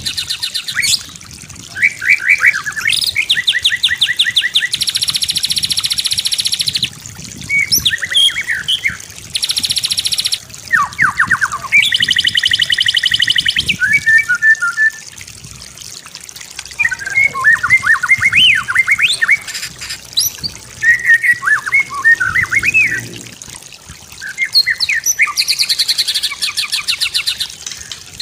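White-rumped shama singing a long, varied song. Fast buzzy trills and rattles alternate with clear whistled and slurred notes, in phrases broken by short pauses.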